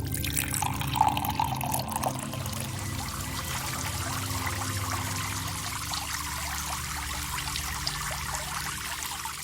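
A steady rushing, trickling liquid sound effect, like water pouring, over a low sustained drone.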